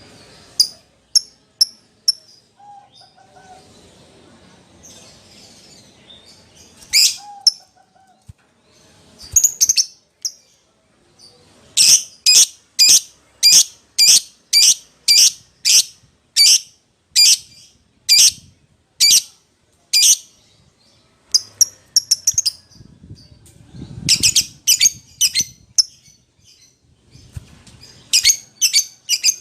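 Lovebird calling with shrill, sharp chirps: a few scattered calls, then a long steady run of about two calls a second, then quicker bunched calls near the end. This is the loud contact call a lovebird uses to call a companion or challenge a rival.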